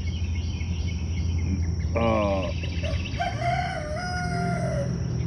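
A rooster crowing once, starting about two seconds in and ending in a long held note, over a steady low rumble.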